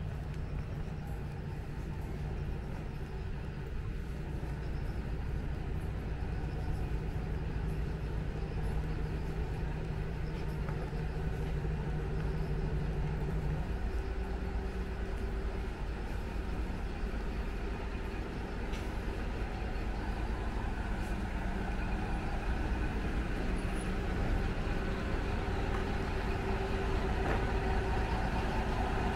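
Akita Nairiku Line diesel railcar running, heard from inside the carriage: a steady low engine drone whose note changes about halfway through, growing slightly louder toward the end.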